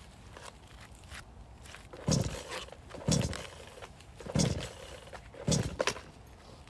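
Axe chopping firewood: four heavy strikes on a log, a little over a second apart.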